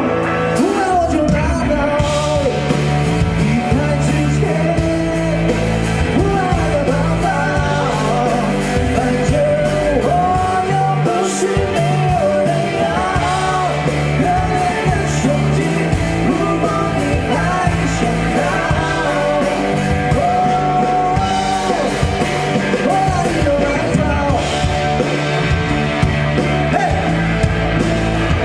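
A male singer performing a Mandarin pop song over a full band backing with a steady beat and bass.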